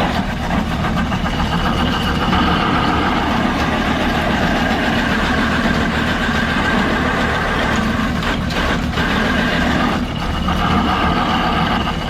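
1948 Allis-Chalmers C tractor's four-cylinder engine running steadily, belt-driving a feed grinder that is grinding ear corn. A few short knocks come late on.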